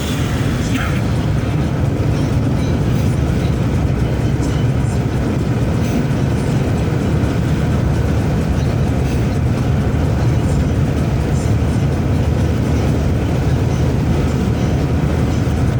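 A moving road vehicle with a steady, loud low rumble that stays even throughout.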